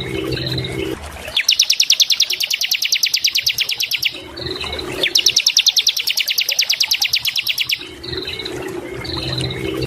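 Bar-winged prinia (ciblek) singing: two long, rapid trills of evenly repeated sharp high notes, each lasting about two and a half seconds, with short whistled notes between them. A low hum sounds in the gaps between the trills.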